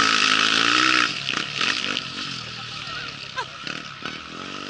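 Rally motorcycle passing at speed, its engine note shifting in pitch and dropping off sharply about a second in as it goes away; another bike's engine is heard more faintly and rises near the end.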